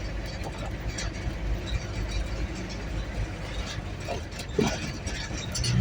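Car driving, heard from inside the cabin: a steady low rumble with light rattling clicks, and a dull thump near the end.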